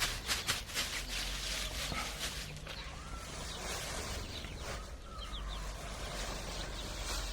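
Chickens: a few faint, short sliding calls from a hen and her newly hatched chicks, after several clicks or rustles in the first second.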